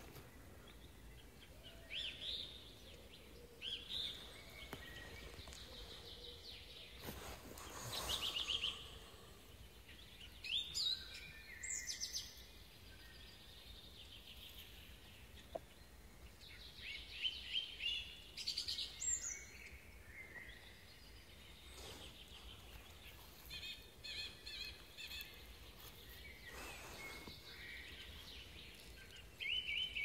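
Small birds chirping and calling on and off, short trills and repeated high notes over a quiet outdoor background, with a brief rustle about eight seconds in.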